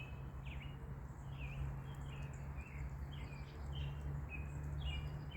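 Birds chirping: short, quick calls repeated several times a second over a steady low rumble.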